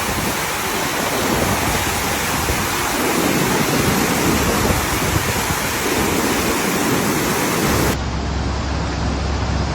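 Rushing floodwater: a loud, steady roar of fast-moving water. About eight seconds in the sound cuts abruptly to a duller recording of the same rushing noise with a steady low hum underneath.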